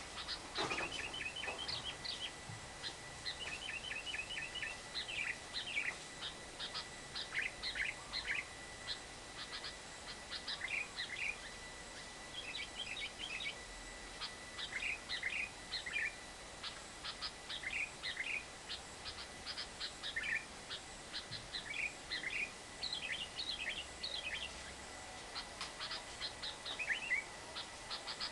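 Lovebird chattering: short bursts of rapid, sharp high-pitched chirps repeated every second or so, the 'ngekek' call. A faint steady high tone runs underneath.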